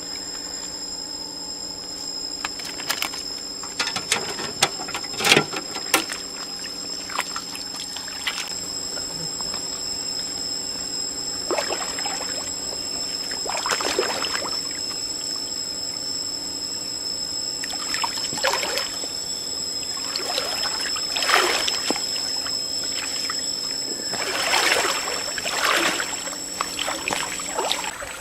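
Water splashing and trickling in irregular bursts, over two steady high-pitched tones.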